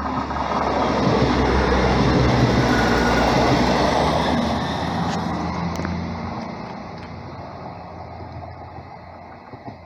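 Class 158 diesel multiple unit passing through the station: rushing wheel-on-rail noise and the growl of its diesel engines build to a peak about two to three seconds in, then fade steadily as it runs away.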